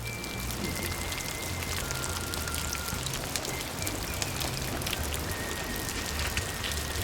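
Steady rainfall, with many individual drops ticking close by.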